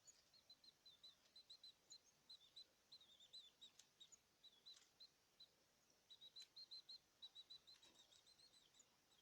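Caged birds chirping: a steady run of short, high chirps, several a second, with a few faint clicks among them.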